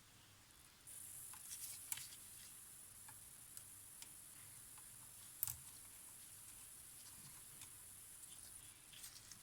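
Near silence with faint, scattered small clicks and taps, two of them sharper about 2 and 5.5 seconds in, over a faint steady high hiss that starts about a second in.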